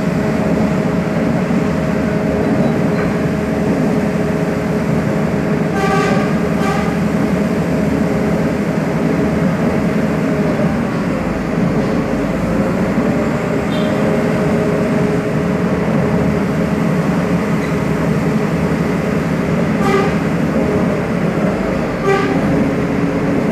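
Moving passenger train running with a steady rumble and hum, broken by a few short toots, two about six seconds in and two more near the end.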